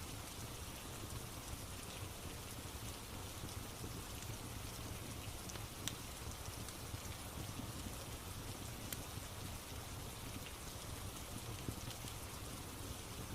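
Steady rain, with a low rumble underneath and a few sharp crackles from a wood fire.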